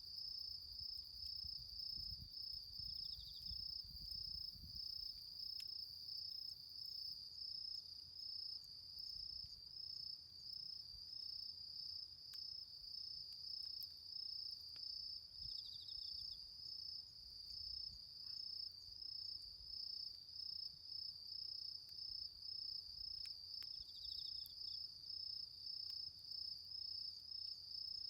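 Crickets chirring in a steady, rapidly pulsing high trill, with a second insect adding short trills every several seconds and a few faint ticks from the campfire's embers.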